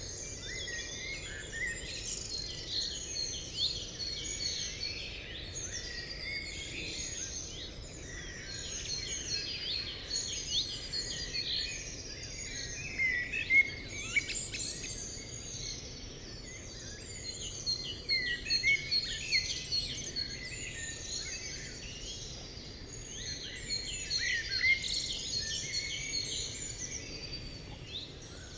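Many birds singing and chirping at once: a dense, continuous chorus of overlapping short whistled notes, trills and chirps, over a steady background hiss.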